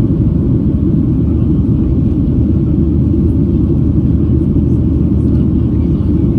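Steady, loud low rumble of a Boeing 737-800's CFM56-7B jet engines and airflow, heard inside the coach cabin.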